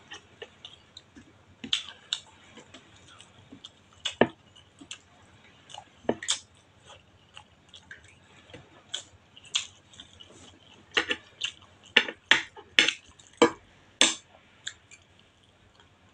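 A person eating soft fish and okra by hand, close to the microphone: wet chewing with lip smacks and mouth clicks at irregular intervals, the louder smacks bunched in the later part.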